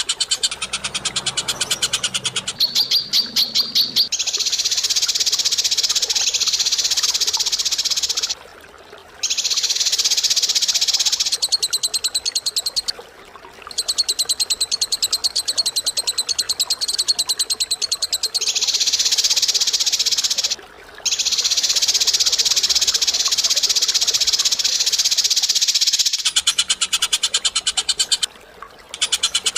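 A bird's rapid, shrill chattering trill in long runs of several seconds each, broken by four short pauses.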